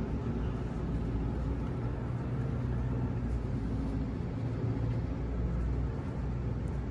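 Large truck engine running with a steady low rumble.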